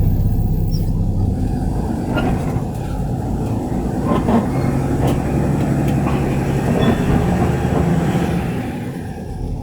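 Garbage truck engine running, its pitch shifting up and down, with steady rattling and a few metallic knocks and clanks in the middle.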